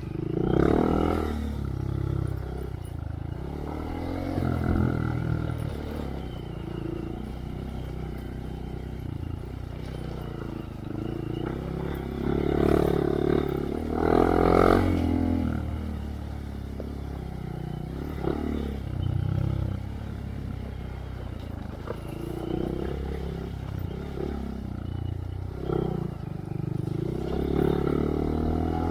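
A 2023 Honda Monkey's 125 cc single-cylinder engine through a Yoshimura RS3 exhaust with spark arrestor, revving up and easing off over and over as the bike is ridden on a dirt trail. The louder rev bursts come about a second in and again near the middle.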